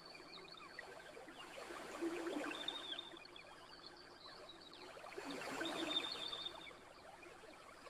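Small waves washing in twice, a swell about two seconds in and another about five seconds in, under the light crackle and snap of a campfire, with thin high calls of night creatures running along above.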